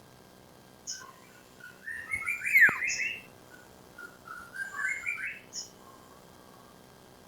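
Iora (sirtu) song: two quick phrases of chirping, warbled notes, the first with a sharp falling whistle in the middle, set off by short high ticks.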